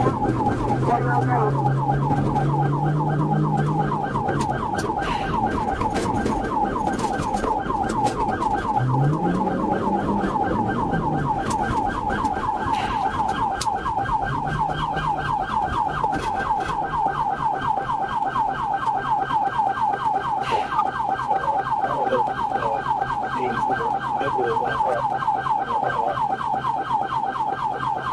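Police car siren wailing in a fast yelp, its pitch sweeping up and down several times a second without a break, with a lower hum rising and falling beneath it now and then.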